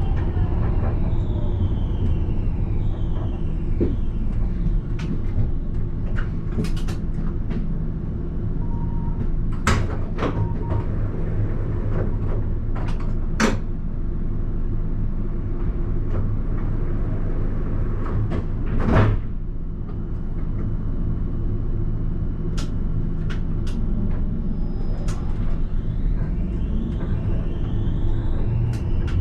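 Alstom Citadis tram running, heard from the driver's cab: a steady rumble of wheels on rail with the electric traction motors whining up in pitch as it pulls away, and again near the end. Scattered sharp knocks and clicks from the track and cab fittings, the loudest about two-thirds of the way through.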